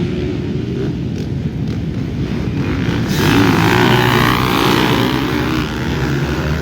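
Dirt bike engines running, with a broad rush of noise added from about three seconds in.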